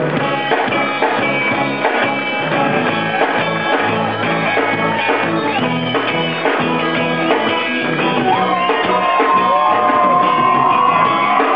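Reggae band playing live, full band with guitar. A held lead note comes in about eight seconds in and sustains over the groove.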